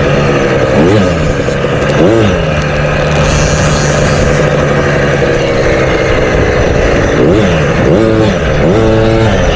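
Motocross dirt bike engine on the track, throttle snapped shut and reopened twice early on, held at a steady high rev for a few seconds, then blipped on and off in quick succession near the end, as over jumps or through gear changes.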